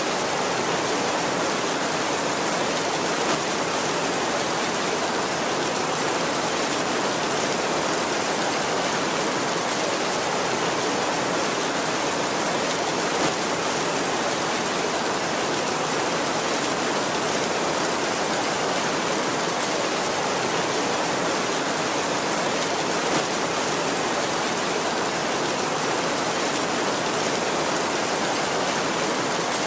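Heavy rain falling steadily on a tin roof, an even hiss with no letup.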